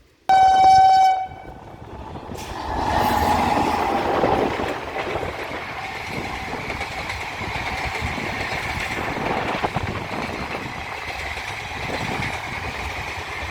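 Indian Railways passenger train's locomotive horn giving one short blast, about a second long, then the train running past over the level crossing, its wheel-on-rail noise building up over a couple of seconds and carrying on steadily.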